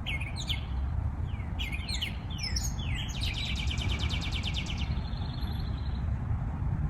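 A songbird calling: several short, falling chirps, then a fast trill lasting about two seconds that fades into a fainter trill. A steady low rumble runs underneath.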